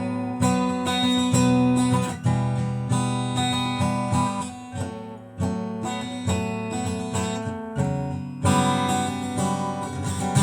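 Instrumental passage of a song: acoustic guitar strumming chords in a steady rhythm, without vocals.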